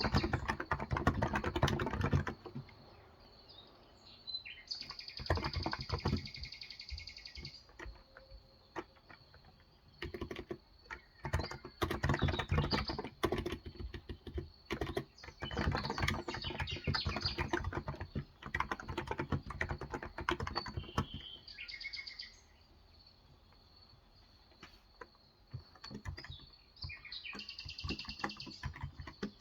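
Typing on a Cox Endeavour electrostatic-capacitive (35 g, Topre-style) tenkeyless keyboard, in bursts of keystrokes broken by short pauses. Birds chirp outside, in spells a few seconds in, about two-thirds of the way through and near the end.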